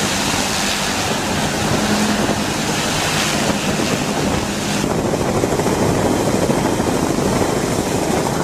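Steady loud rush of helicopter rotor and engine noise with a faint steady hum; the hiss thins a little about five seconds in.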